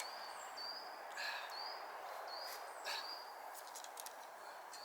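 A songbird calling a run of short, high whistled notes, each rising and then held briefly, about two a second, with a couple of sharper chirps between them, over a steady outdoor hiss.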